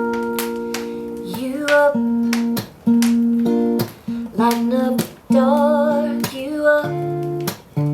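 Acoustic guitar strumming sustained chords, one strum every second or so, with a wavering melody line above some of the chords.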